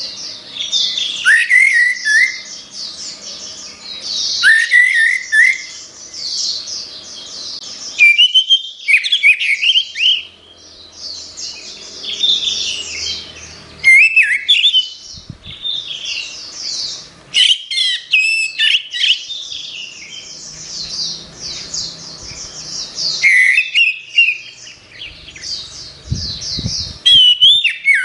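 Orange-headed thrush singing a varied, rapid song: high chattering phrases mixed with slurred whistled notes, coming in bursts every second or two with short pauses between.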